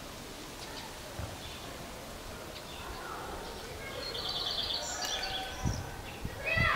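Woodland ambience with wild birds calling. A quick, high bird trill comes about four seconds in, and a couple of dull thumps follow near the end.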